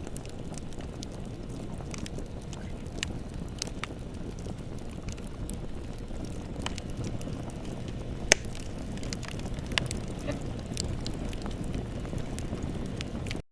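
Bonfire crackling, with scattered pops over a low steady rumble of burning. One sharp pop about eight seconds in is the loudest. The sound drops out for an instant just before the end.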